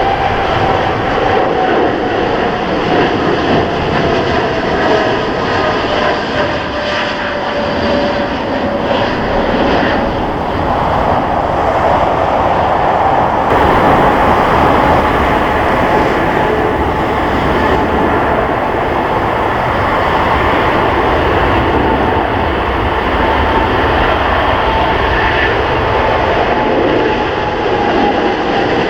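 Jet airliner taking off at full thrust: a steady engine noise with a fan tone that falls in pitch over the first several seconds as the aircraft passes.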